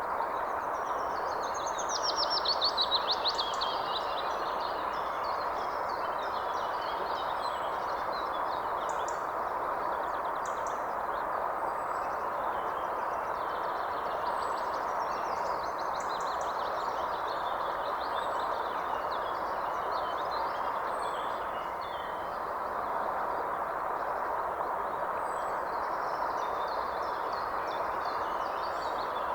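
Several birds calling and singing, with a loud rapid trill a couple of seconds in and scattered short chirps after it, over a steady rushing noise.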